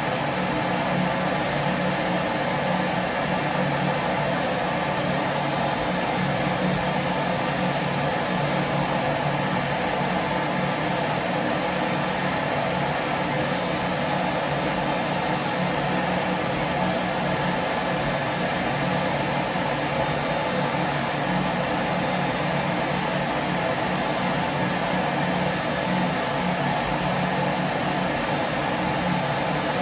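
Vacuum cleaner running steadily: a continuous, unchanging hum and hiss, with soft rain noise blended in.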